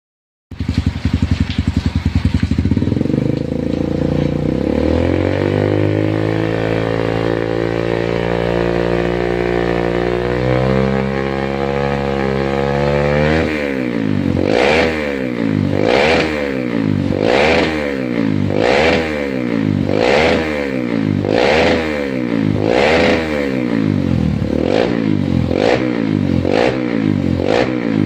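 Single-cylinder 150 cc trail bike running through an aftermarket full-bend stainless-steel exhaust: it starts about half a second in, idles with its pitch climbing slowly, then from about halfway it is revved in repeated short blips, roughly one every second and a half.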